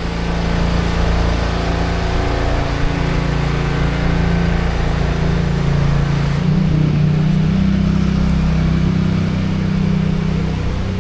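Motor vehicle engine running steadily nearby: a low hum that steps up slightly in pitch partway through, over the noise of a wet street.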